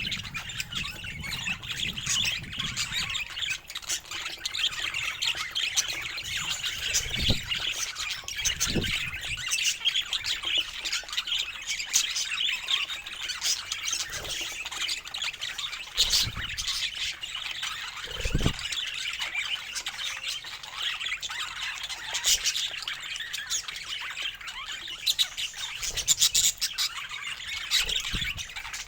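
Budgerigars chattering: a continuous, busy mix of chirps, warbles and squawks from several birds, with a few short low thumps along the way.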